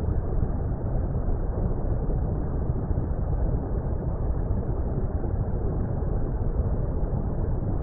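Steady, low rumbling water noise, an even muffled wash with nothing above a dull roar and no separate splashes or events.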